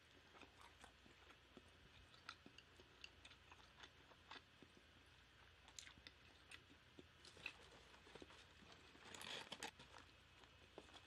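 Faint close-miked chewing of charbroiled pork: small irregular mouth clicks scattered throughout, with a brief louder crunchy rustle about nine seconds in.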